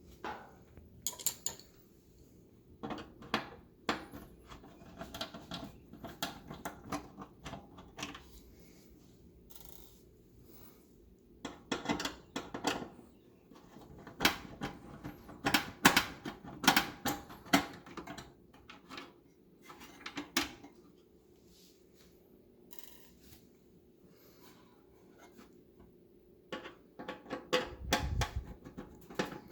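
Irregular clicks, taps and rattles of hands working on an oven's control panel, handling plastic and metal parts and wiring connectors, in clusters with quiet pauses. A low thump comes near the end.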